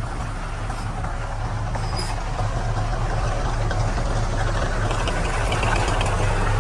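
Heavy diesel engine of earthmoving machinery running steadily under load, with a low, even drone.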